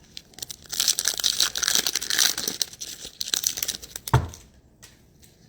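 Foil wrapper of a Panini Chronicles football card pack crinkling as it is torn open, followed just after four seconds in by a single dull thump.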